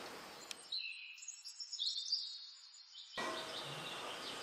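Faint high chirping calls, like small birds, with short sliding notes, over quiet background noise. For about two and a half seconds in the middle the background hum drops away, leaving only the chirps.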